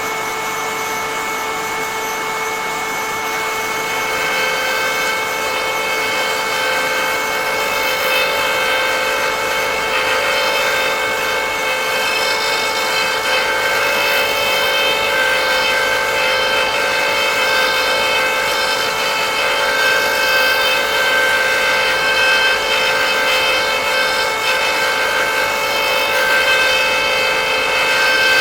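A power tool's motor running steadily while its cutter rasps into wood, cutting threads in a turned wooden piece on a lathe threading jig.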